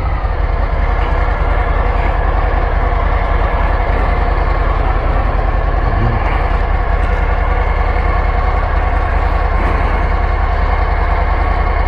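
Harley-Davidson FXDR 114's Milwaukee-Eight 114 V-twin idling steadily with an even pulsing beat.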